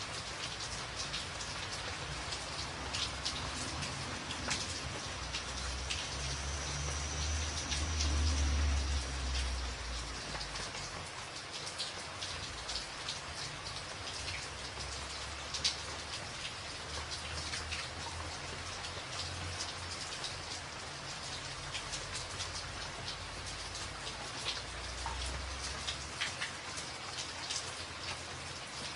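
Steady heavy rain drumming on a tin roof, dense patter with many sharp individual drop strikes. A low rumble swells and fades about a third of the way in, and again briefly near the end.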